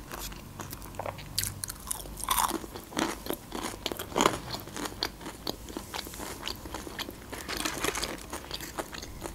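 Close-up crunching and chewing of crispy breaded fried cheese bites dipped in garlic sauce, a run of irregular crackles with a few louder crunches.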